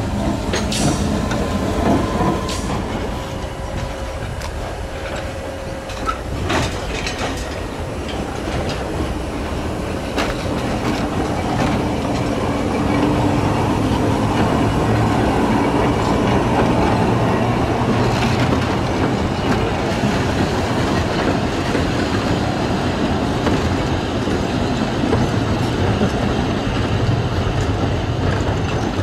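760 mm narrow-gauge train hauled by a steeple-cab electric locomotive rolling slowly past at close range: wheels clicking over rail joints and points, with some wheel squeal. It grows louder about halfway through as the locomotive draws level, and the passenger coaches then roll by.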